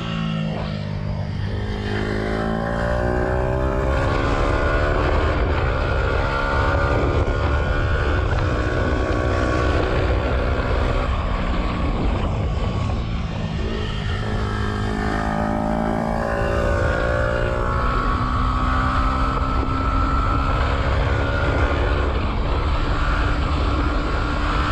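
Yamaha YZF-R125's 125 cc single-cylinder four-stroke engine under way, revving up through the gears and easing off several times, then holding a steadier note near the end. It is heard through an exhaust with the dB killer removed.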